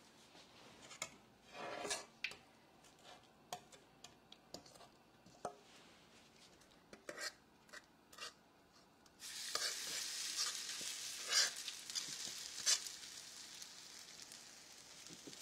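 A few clicks and scrapes of a spoon, then about nine seconds in grated potato latke batter goes into the hot avocado oil in a frying pan and starts sizzling steadily.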